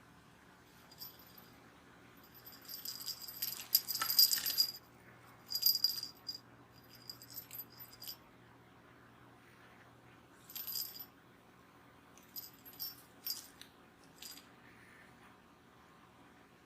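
A cat toy jingling and rattling in irregular bursts as a kitten plays with it, loudest about four seconds in, then in shorter spells.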